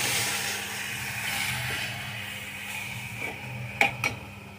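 Chopped ridge gourd peels and potatoes sizzling in an aluminium pot as a metal spoon stirs them, the sizzle fading away. Near the end the spoon clinks sharply against the pot twice.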